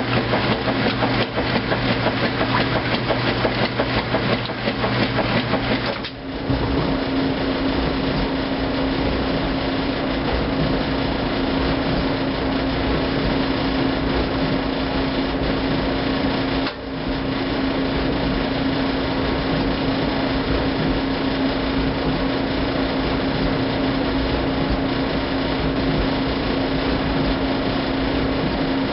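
2008 Kenmore top-load washing machine running its heavy duty cycle. A rapid, dense mechanical rattle with a low hum runs for about six seconds, then after a brief drop the machine settles into a steadier, higher hum that dips once more briefly near the middle.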